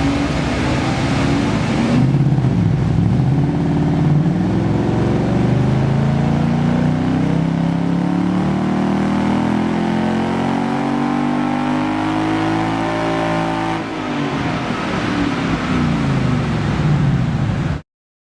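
Ford Mustang GT's 5.0 V8 through a Mishimoto axleback exhaust on a chassis dyno, running a long pull with the pitch climbing steadily. It drops about fourteen seconds in, climbs again, then cuts off suddenly just before the end.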